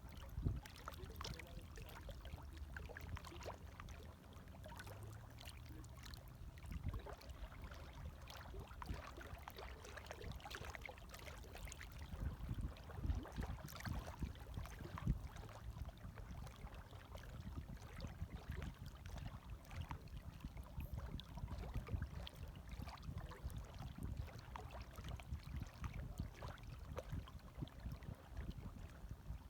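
Gentle small waves lapping, a steady low wash broken by many small irregular splashes and gurgles.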